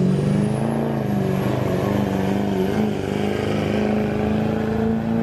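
Diesel pickup truck engine running hard under load in a truck pull, its note holding fairly steady with small wavers and edging higher near the end.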